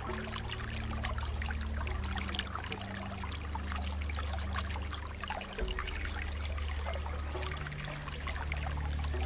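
Water trickling and splashing steadily, like a small stream, over a low sustained drone whose notes change about halfway through.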